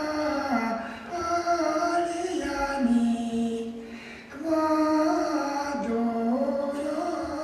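A single high voice, a woman's or a child's, singing a slow melody in long held notes that step up and down. It sings two phrases, with a short break a little past halfway.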